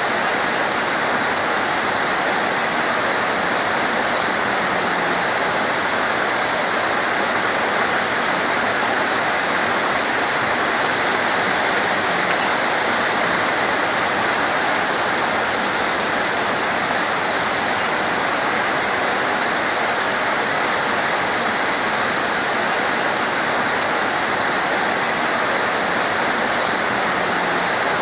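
Heavy torrential rain falling in a steady, dense downpour, with a couple of sharp drip-like ticks about a second in and near the end.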